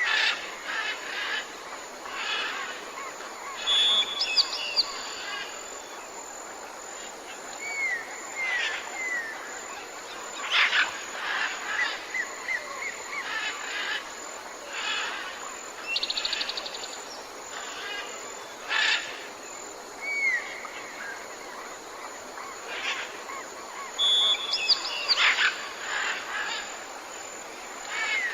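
Tropical forest birds calling over a steady background hiss: a mix of short curved whistles and chirps, with a quick trill partway through. The same run of calls comes back about twenty seconds later.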